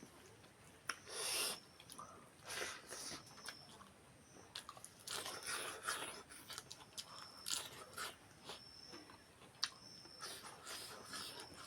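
A person eating fish curry: chewing and crunching mouthfuls in irregular short bursts, with small clicks between them.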